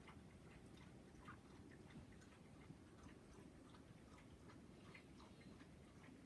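Near silence: quiet room tone with faint, irregular small clicks, a few each second.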